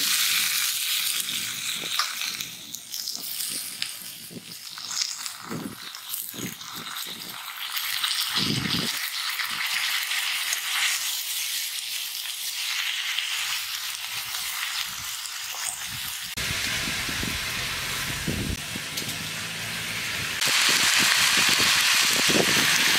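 Malabar spinach, potatoes and red lentils sizzling in an aluminium kadai, with scrapes and knocks of a metal spatula stirring them. The sizzling gets louder near the end.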